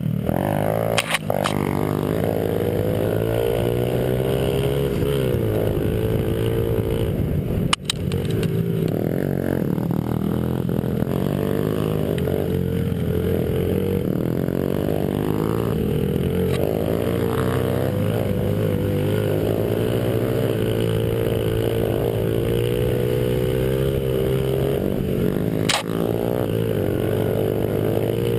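Small Honda 50cc four-stroke pit bike engine running hard, its pitch rising and falling again and again as the rider revs up and backs off. Three brief sharp clicks break in along the way.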